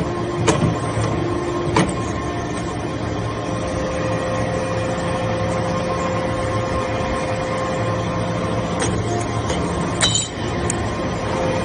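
Hydraulic shaving baler running: a steady machine hum with a few sharp metallic clicks, the loudest about ten seconds in.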